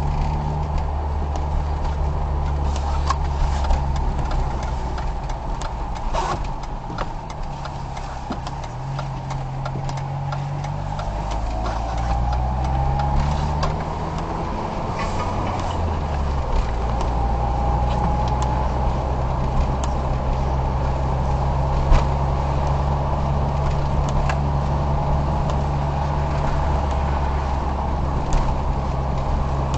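Car engine and road noise while driving. The engine note drops back about eight seconds in, then rises steadily as the car speeds up again, and settles into a steady drone, with a few faint clicks.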